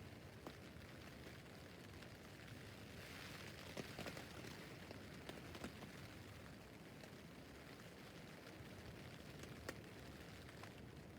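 Rain on a tent roof: a faint, steady patter with scattered single drops tapping on the fabric, a little heavier around three to five seconds in.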